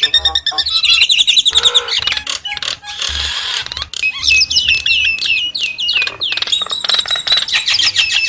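Nias starling singing a long, varied song: quick chirps, rattles and sliding whistled notes run on without a break.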